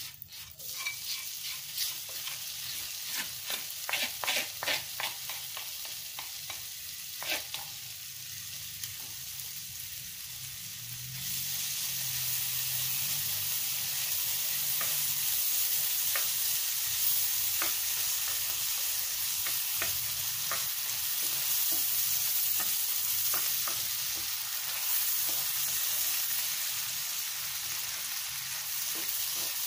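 A silicone spatula scrapes and taps chopped red chillies out of a bowl into hot oil in a nonstick frying pan. The chillies then fry with a steady sizzle that swells about eleven seconds in, while the spatula stirs them with light scraping ticks.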